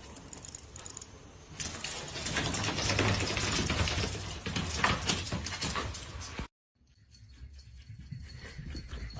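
A dog, with scattered rustling and clicking noises; the sound cuts out completely for a moment near the end.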